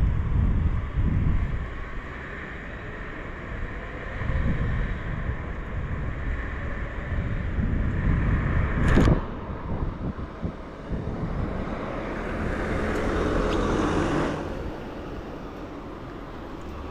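Typhoon wind buffeting the microphone in gusts, with a sharp knock about nine seconds in and a rushing hiss that swells for a couple of seconds near the end.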